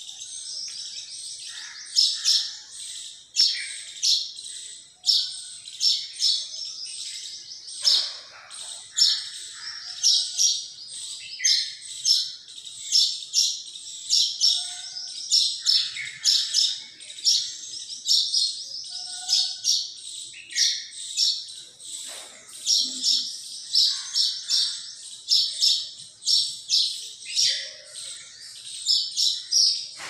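A small songbird chirping over and over, short high-pitched calls about twice a second, kept up without a break.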